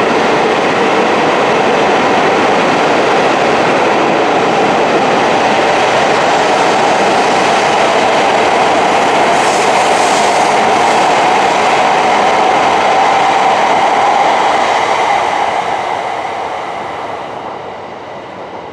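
E5 series Shinkansen train pulling out of the station and running past close by, a loud steady rush of wheels and running gear with a brief extra hiss about halfway through. The sound fades away over the last few seconds as the tail of the train draws off.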